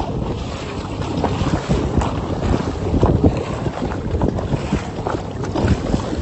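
Wind blowing across the microphone in uneven gusts, over water moving around a kayak.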